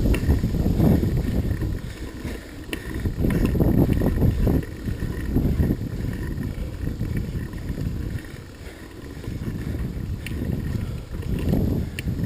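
Wind buffeting the microphone on a moving vehicle, heard as an uneven low rumble that surges and dips every few seconds.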